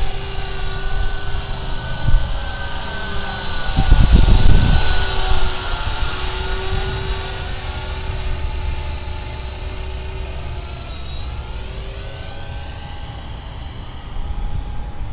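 Walkera Lama 3 coaxial electric RC helicopter in flight, its motors and rotors whining steadily with the pitch drifting as it is flown and fades slowly away. Wind buffets the microphone throughout, hardest in a gust about four seconds in.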